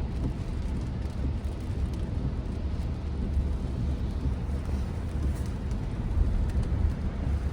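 Steady low road and tyre rumble heard inside the cabin of an electric Tesla Model Y driving on a rain-soaked road.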